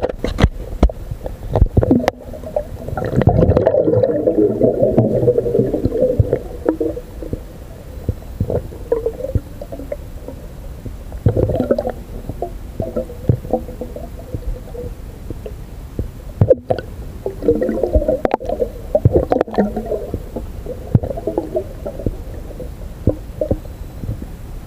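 Muffled underwater sound in a swimming pool: irregular gurgling and bubbling that swells and fades several times, with scattered clicks and knocks.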